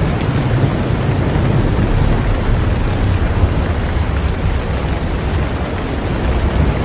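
Heavy rain falling steadily on a boat, an even hiss with a deep low rumble underneath.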